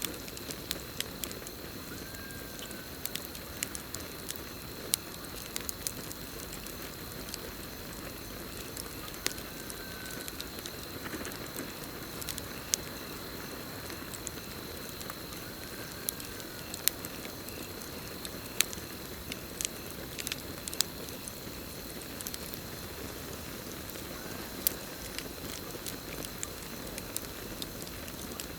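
Campfire crackling with scattered sharp pops, over a steady high-pitched cricket trill. A faint short call sounds about every seven seconds.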